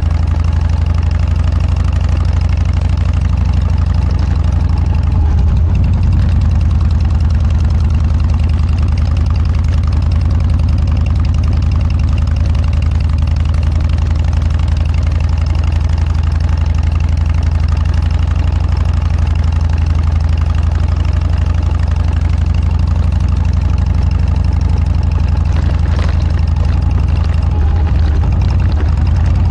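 Harley-Davidson Dyna's V-twin engine running steadily through aftermarket Motorstage mufflers. It gives a deep, even exhaust note that holds at one pitch throughout.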